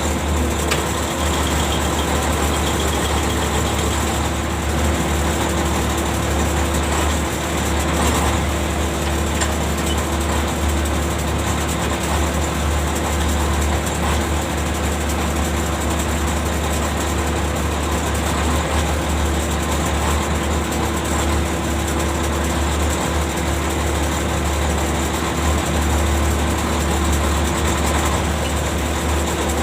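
Ship's machinery running steadily: a loud, even engine drone with a deep hum and a constant tone, unchanging throughout.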